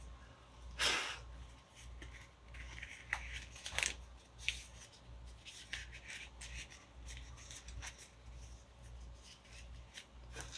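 Burlap cloth being handled and rustled, with irregular dry scrapes and crinkles, loudest about a second in and again just before four seconds.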